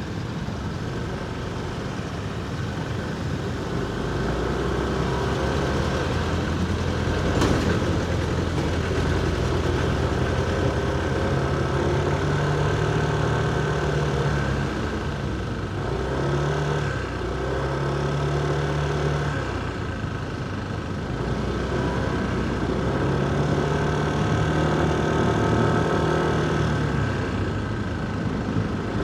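Motorcycle engine running on a city street ride, its pitch rising and falling several times with the throttle, over steady traffic and road noise. A sharp click comes about seven and a half seconds in.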